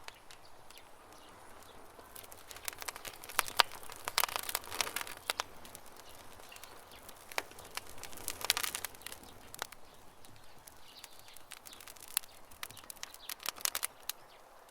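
Campfire crackling: clusters of sharp pops and snaps, loudest about two to five seconds in, again around eight seconds, and near the end, with birds chirping faintly in the background.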